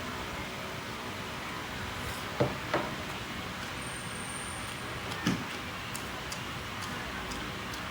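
Steady background noise with brief knocks: two close together about two and a half seconds in, and another about five seconds in.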